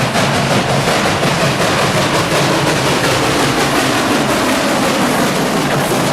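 Train hauled by the 0-6-0 steam locomotive Central Railroad of New Jersey No. 113 passing close by: a loud, steady rumble and clatter of wheels on the rails.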